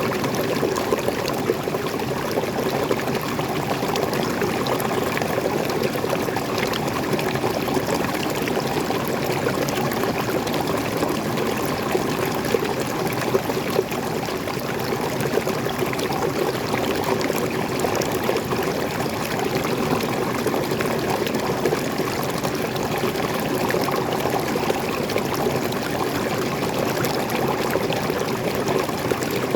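Small forest waterfall and stream, water pouring and splashing steadily over rocks.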